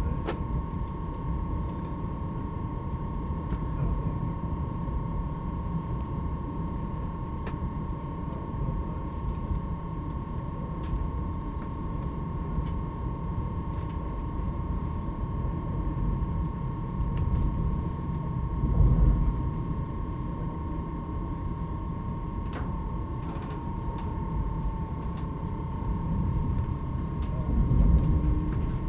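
Cabin sound of a Stadler KISS (ER1) double-decker electric train under way: a steady low rumble of wheels on track with a steady high whine. The rumble swells twice, and a tone rises in pitch near the end.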